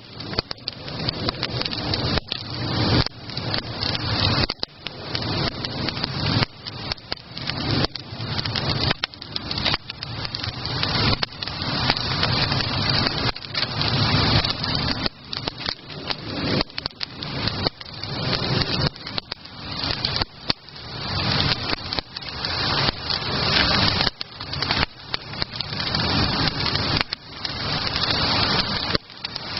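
Wood campfire crackling, a dense run of irregular snaps and pops over a steady hiss.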